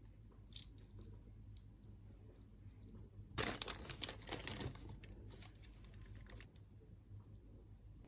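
Small plastic toy parts handled by hand: scattered light clicks, then a busy spell of clicking and rattling a little over three seconds in, with a softer one after it.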